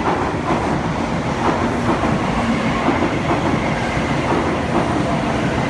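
Tokaido Shinkansen train running into the platform, a steady loud rush of wheels on rail with irregular clacks over the track.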